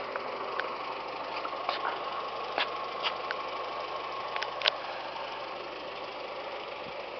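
Fiat 500's 1.4-litre MultiAir four-cylinder idling steadily, with a few faint scattered clicks.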